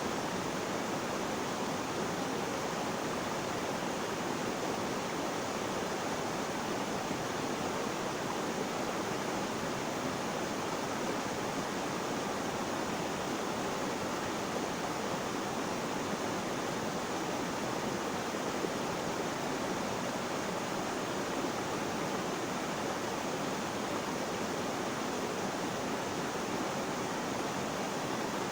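Flowing water making a steady, even rush that does not change.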